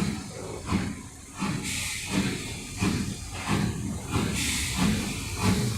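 Steam locomotive passing slowly, hissing steam with a regular low beat about every two-thirds of a second.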